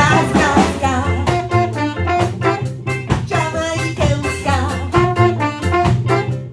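A ska band playing a 1960s Jamaican ska tune with a steady off-beat rhythm, a woman singing over upright bass, drums and brass.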